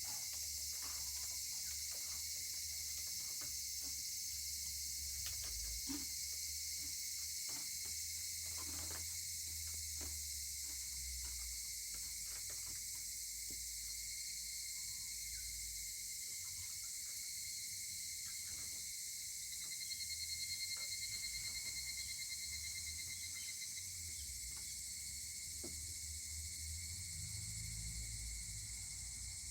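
Wood fire crackling with scattered sharp pops, over a steady high chorus of insects. About two-thirds of the way in, a higurashi (evening cicada) call pulses briefly.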